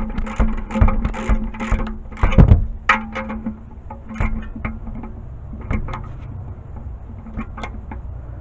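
Ratchet wrench clicking in quick strokes as the oil drain plug is tightened, with a heavier knock about two seconds in, then only a few scattered taps after about three and a half seconds. A guitar music track plays underneath.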